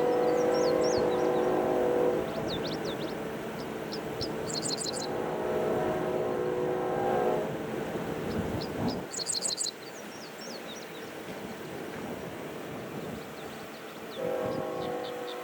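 Diesel locomotive horn sounding a chord in long blasts: one carrying over from before, another about 5 seconds in, and a third starting near the end, over the rumble of a passing train that drops away about 10 seconds in. Birds chirp high above.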